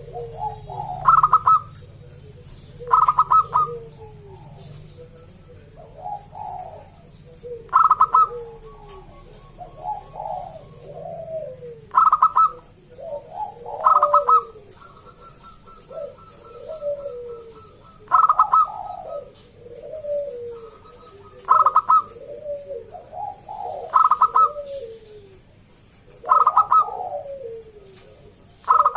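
Zebra dove (perkutut) singing its cooing song over and over: each phrase opens with a bright, short high note and runs into lower, falling, rolling coos, a new phrase every two to four seconds.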